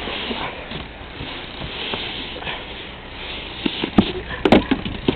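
Snow shovel scraping and pushing snow, with a few sharp knocks about four seconds in.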